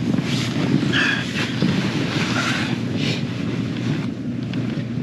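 Pickup truck engine idling with a steady low rumble, with brief rustling and handling noises over it.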